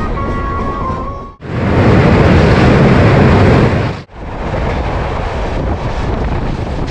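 Music with a melody for about the first second, then a sudden cut to loud, steady running noise of a moving train, and about four seconds in another cut to a quieter steady train rumble.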